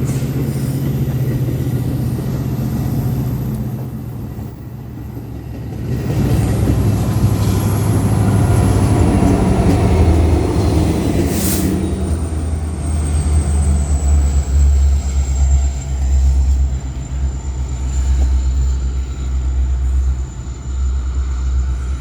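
Metra commuter train running through the station: a steady low diesel hum, swelling about six seconds in into a heavier rumble with rail noise that stays loud to the end.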